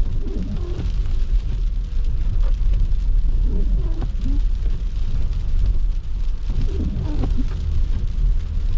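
Steady low rumble of a car driving, with short faint voice-like sounds breaking in a few times.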